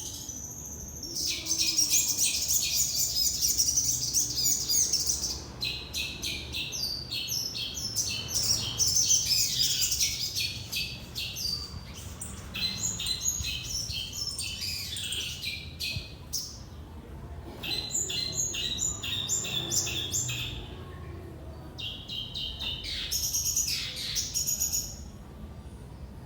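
A sogon songbird singing eagerly in bouts of rapid, sharp, high chirps, each bout several seconds long with short pauses between. It is a wild-caught bird that has come into full song.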